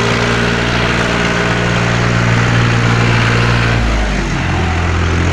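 Tractor engine running hard and steady, its pitch dropping to a lower, slower note about four seconds in as the engine slows under load.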